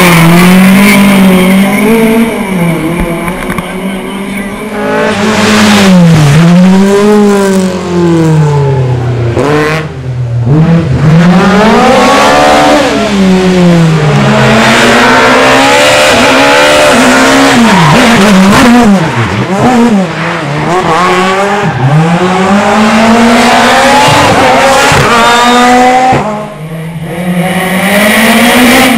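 Historic rally car engines running hard, the pitch repeatedly climbing under acceleration and dropping back at gear changes and lifts, over and over.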